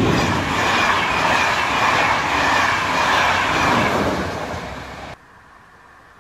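SNCF BB 26000 electric locomotive and its passenger coaches passing at close range: a steady rush of wheels on rails with some clickety-clack. It fades slightly and then cuts off suddenly about five seconds in, leaving only a faint background hiss.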